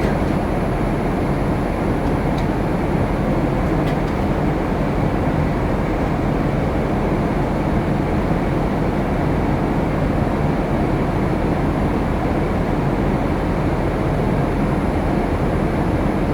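Steady cabin noise of a Boeing 787-8 airliner in flight: an even rush of airflow and engine noise heard from inside the cabin, with a faint high-pitched whine above it.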